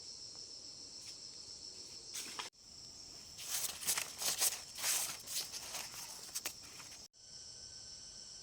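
A steady high-pitched chorus of insects trilling, with a run of loud irregular rustling and crackling of dry vegetation in the middle. The sound breaks off abruptly twice, about two and a half and seven seconds in.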